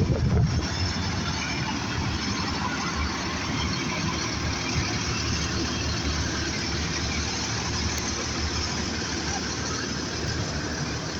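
A vehicle's engine running steadily, a low rumble under an even rushing noise, a little louder in the first half-second.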